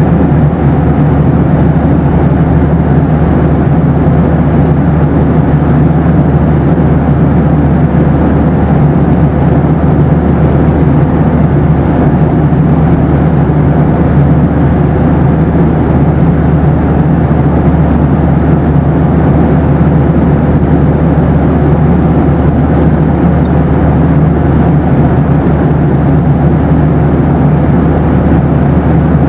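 Boeing 737 airliner's steady in-flight drone of engines and rushing air, deep and unchanging, with a faint steady hum in the middle.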